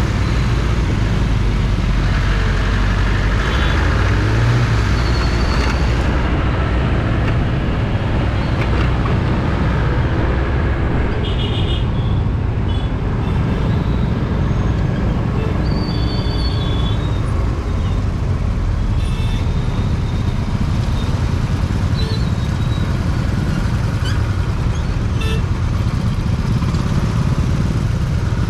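Road traffic heard from a scooter riding through city traffic: a steady, loud rush of engine and road noise, with several short horn toots from surrounding vehicles.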